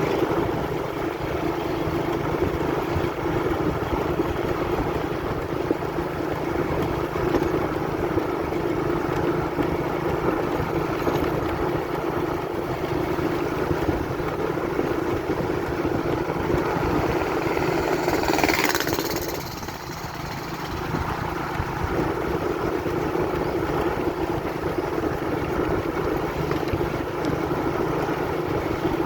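Motorcycle engine running steadily while riding an off-road dirt track. About two-thirds of the way in there is a brief louder rush, after which the engine drops back for a couple of seconds before picking up again.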